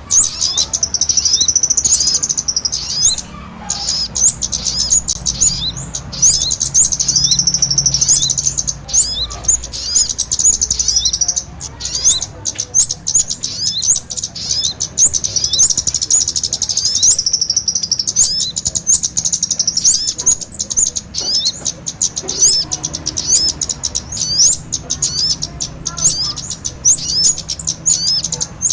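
Bird-lure recording of kemade calls mixed with sogon ontong song: a dense, unbroken run of rapid, high-pitched chirps and trills, many a second.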